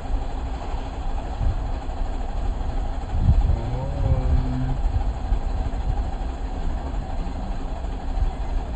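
Safari vehicle driving, a steady low engine and road rumble.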